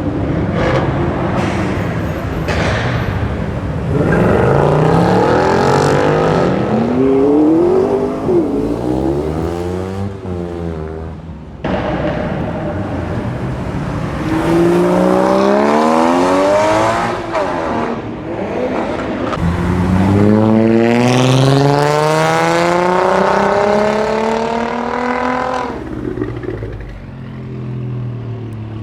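Performance car engines accelerating hard one after another, each climbing steeply in pitch and breaking at upshifts. Three main pulls: about four seconds in, about fourteen seconds in, and a longer one from about twenty seconds in.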